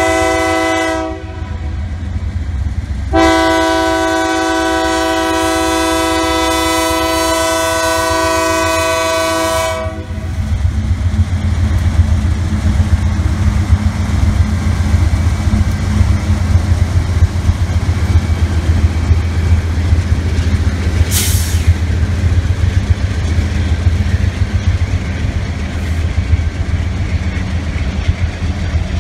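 Diesel freight locomotive's multi-chime air horn: one blast cuts off about a second in, then a long blast sounds from about three seconds in until about ten seconds. After it comes the loud, steady low rumble of the locomotive's diesel engine and the train's wheels rolling by.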